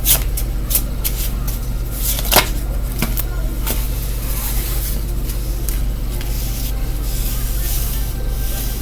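Tarot cards being shuffled and handled: several sharp snaps and taps in the first few seconds, then a steadier rustle of cards sliding against each other.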